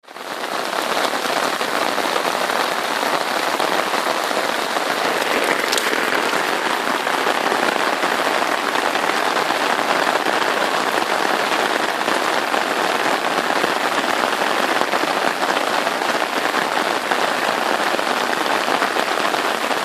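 Steady monsoon rain falling and pattering on surfaces, fading in over the first second and then holding even.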